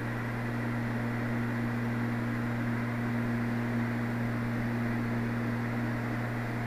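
Steady drone of a Cessna 320 Skyknight's twin piston engines and propellers in cruise, heard inside the cockpit through a headset microphone, with a low hum and a steady higher tone over a rushing noise.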